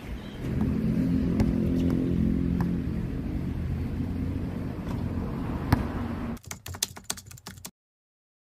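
A motor vehicle engine running close by, steady and low with an even pitch, from about half a second in until about six seconds. A few sharp knocks sound over it, then a quick run of knocks, and the sound cuts off.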